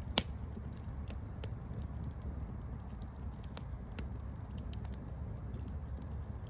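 Campfire burning with a steady low rumble of flames and scattered irregular pops and snaps of burning wood, the loudest sharp snap just after the start.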